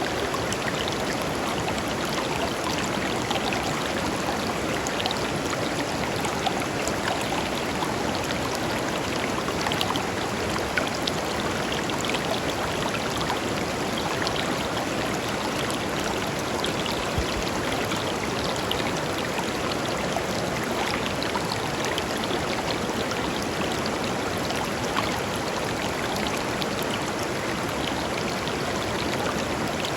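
Shallow river flowing over stones: a steady rushing of water, flecked with small splashes and trickles.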